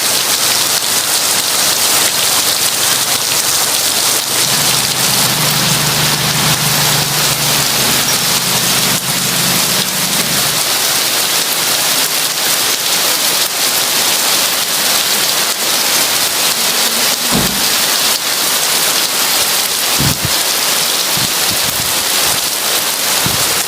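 Heavy rain pouring down in a steady, dense hiss. A low rumble of distant thunder runs from about four to ten seconds in, and a few short low thumps come near the end.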